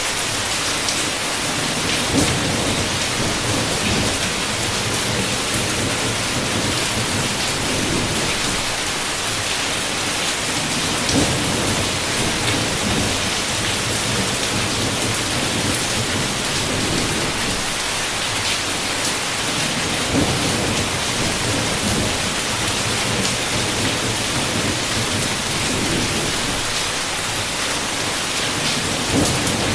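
Heavy rain falling steadily with low, rolling rumbles of thunder underneath. A few brief louder hits stand out, about every nine seconds.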